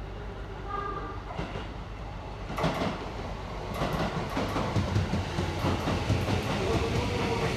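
Tokyo Metro 05 series electric train running into the station, its wheels clattering over rail joints and growing louder from about two and a half seconds in. A steady whine joins near the end.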